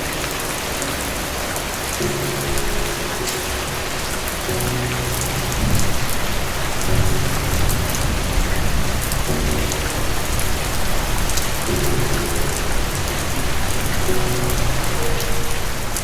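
Steady heavy rain, a dense hiss with scattered drop patters, over soft music with sustained low notes. A low rumble of thunder swells about five seconds in.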